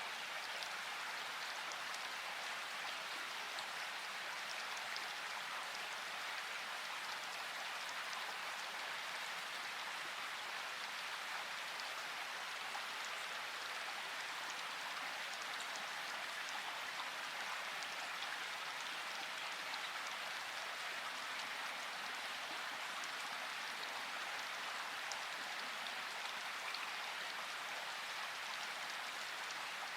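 Steady rain, an even hiss with many small drop ticks and no thunder.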